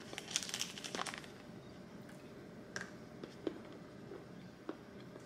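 Faint crunching of a rice milk chocolate bar being bitten and chewed: a cluster of crisp crackles in the first second, then a few separate clicks.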